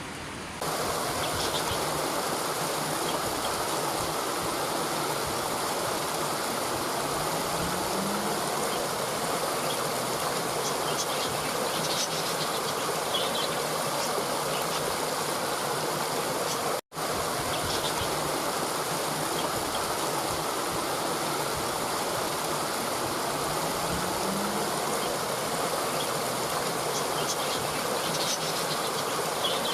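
Steady rush of running water, like a flowing stream, with a few faint high chirps. The sound cuts out for an instant just past halfway, then the same stretch of recording repeats as a loop.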